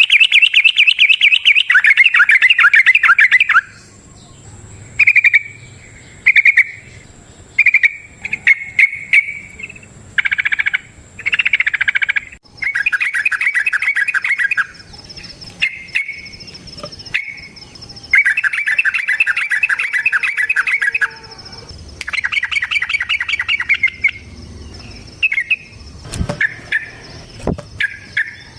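Yellow-vented bulbul (trucukan) singing repeated bursts of long, rapid, bubbling chatter, the 'ropel panjang' song, several phrases each lasting two to three seconds with shorter calls between them.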